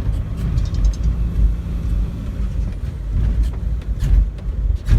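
Car driving slowly, a steady low rumble of engine and tyres with scattered light knocks and rattles.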